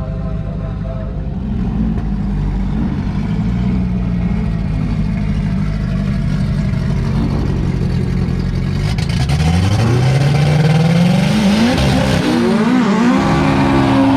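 Drag-racing car engines idling and burbling steadily at the starting line, then about nine seconds in they rev up hard as the cars launch, the pitch climbing through the gears. Near the end the engine pitch drops sharply as the cars go past.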